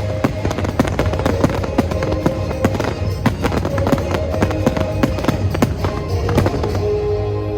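A rapid run of fireworks bursts and crackling pops, several a second, over the show's orchestral music. The pops thin out near the end as a long held note comes in.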